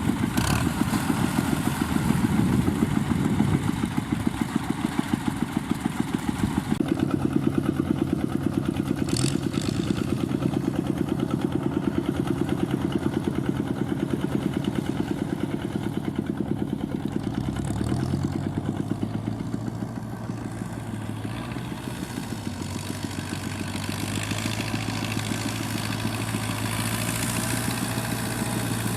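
Fiat 640 tractor's diesel engine running steadily under load while driving a straw-roll baler. Its note changes about a quarter of the way in and again just past the middle, with a few brief clatters from the machinery.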